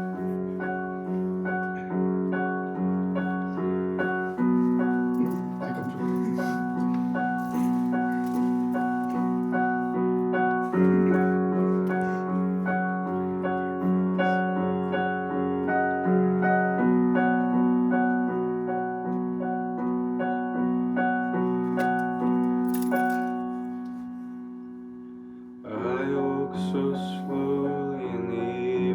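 Piano playing the introduction to a song in steady, evenly repeated chords. Near the end it fades away for a moment, then comes back in fuller.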